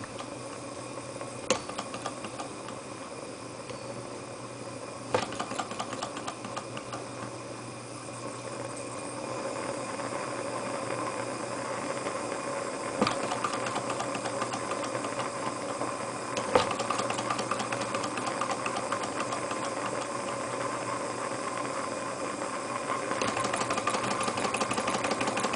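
Torch flame hissing steadily as it heats a Grizzly H8102 model Stirling engine, with a few sharp clicks and a light mechanical rattle from the engine that thickens and gets louder over the second half.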